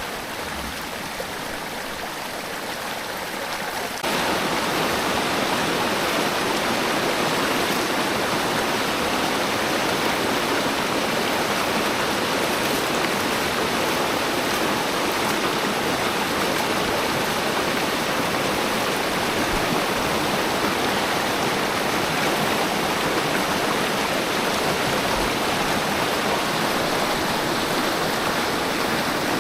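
Stream water rushing and splashing steadily, becoming suddenly louder about four seconds in.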